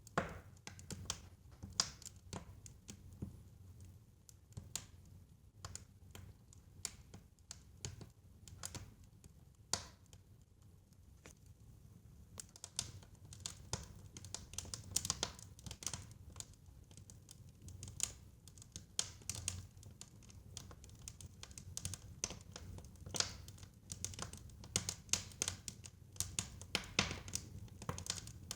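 Fire in a fireplace crackling: irregular sharp pops and snaps over a low, steady rumble of flames, the pops coming thicker and louder in the second half.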